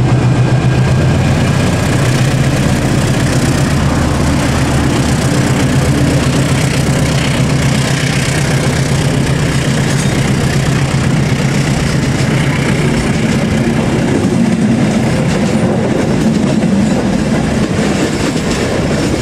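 A KAI CC 206 diesel-electric locomotive passing close by, its diesel engine droning steadily under power as it pulls the train away. About twelve seconds in, the engine drone gives way to the rumble of the passenger coaches rolling past, with wheels clicking over the rail joints.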